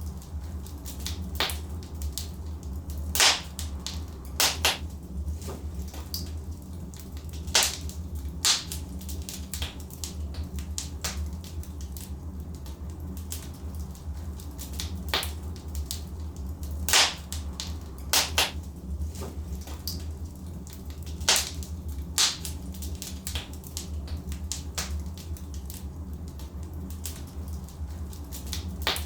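Logs burning in a fireplace, crackling with irregular sharp pops and a few loud snaps, over a steady low rumble.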